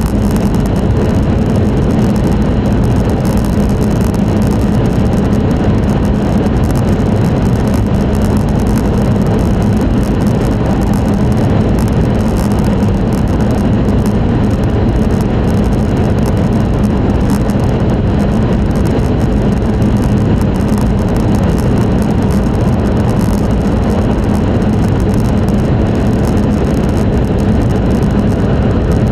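Passenger-cabin running noise of an E5 series Shinkansen travelling at speed: a steady, loud rumble of wheels on rail and air rushing past the car body, with a constant low hum.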